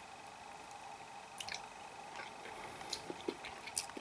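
A person chewing a bite of tender fried burbot, with a few faint, soft, wet mouth clicks.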